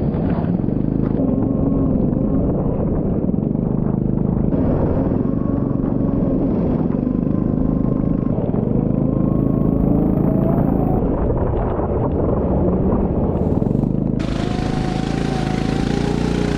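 Go-kart engine heard onboard while driving, its pitch rising and falling as the revs climb and drop, over a heavy low rumble. A hiss joins near the end.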